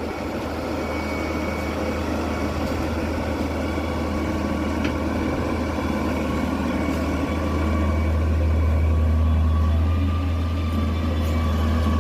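A heavy machine's engine running steadily with a deep hum and a faint whine above it, getting louder about halfway through.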